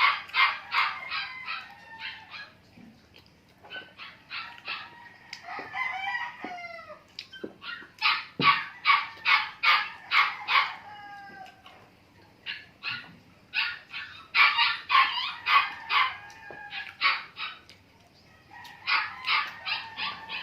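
Dog barking insistently in repeated bouts of quick, regular barks, about three to four a second, with short pauses between bouts; the dog is begging for food.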